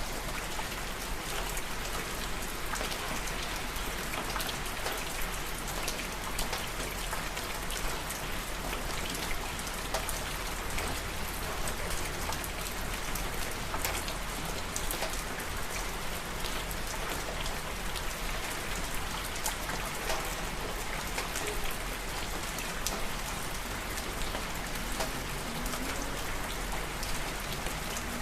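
Steady rain falling and pattering on surfaces, with many small drop ticks scattered through it.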